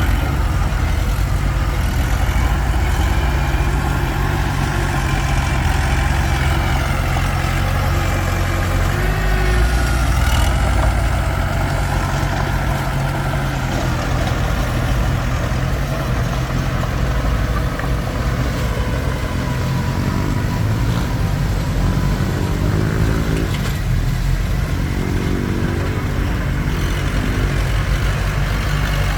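Komatsu D21P small crawler bulldozer's diesel engine running steadily as it works, its pitch shifting a little with load.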